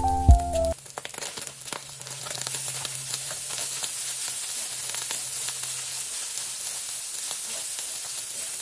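Diced Spam and cooked rice frying in a hot wok: a steady sizzle, with a wooden spoon scraping and clicking as the rice is stirred in. Light piano music cuts off under a second in.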